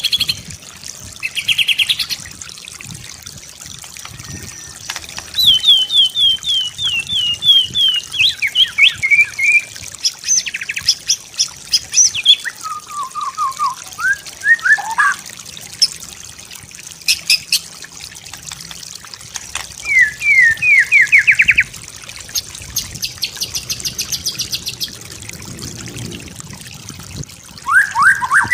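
White-rumped shama (murai batu) singing: phrases of fast repeated notes and whistles, some falling and some rising, broken by short pauses. A faint trickle of water runs underneath.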